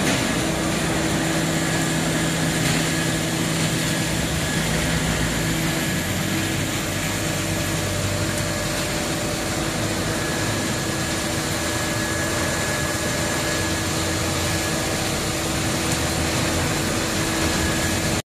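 A steady mechanical hum and hiss from a running engine or vehicle, cutting off suddenly near the end.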